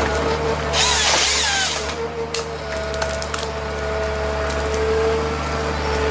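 A heavy wood-cutting machine's engine running steadily, with a loud burst of wood splintering and cracking about a second in.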